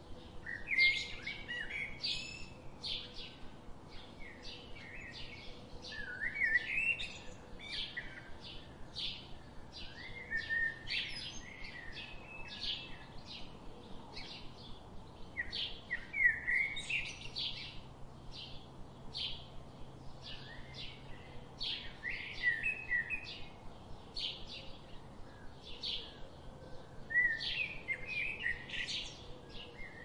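Birds chirping and singing: a steady run of short, high chirps about twice a second, broken every five seconds or so by a longer warbled phrase.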